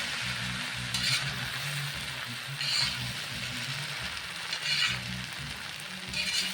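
Chicken chow mein noodles sizzling as they are stir-fried in a hot kadai, with four louder strokes about two seconds apart as the food is tossed and mixed.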